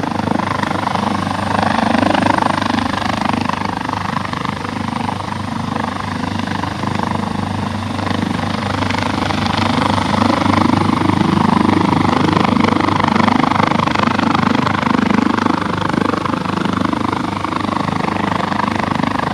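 Rescue helicopter running, its rotor beating steadily with the turbine whine underneath. It grows louder about two seconds in and then swells and eases slightly.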